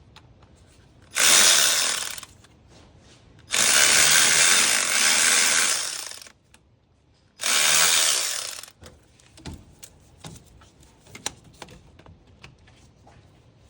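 Cordless power driver run three times in short bursts, the middle one longest, each winding down as the trigger is released, turning out the 5/16-inch screw of a radiator hose clamp.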